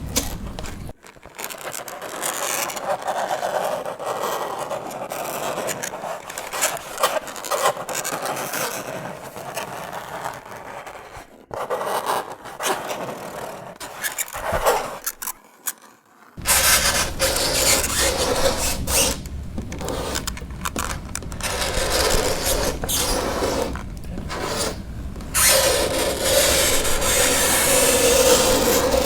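Fingernails scraping across a chalkboard in continuous, noisy scratching strokes, dropping out briefly a little past halfway.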